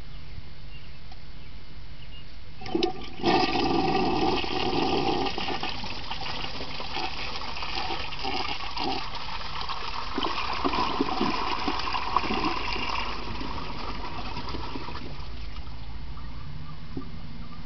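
1977 American Standard Plebe toilet flushing a load of paper towels. A couple of clicks about three seconds in are followed by a sudden rush of water, then gurgling as the bowl drains, tapering off near the end.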